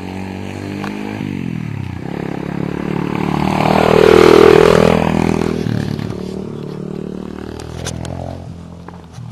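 Orion AGB 37 pit bike's single-cylinder four-stroke engine running as the bike is ridden past, growing louder to a peak about halfway through and then fading away.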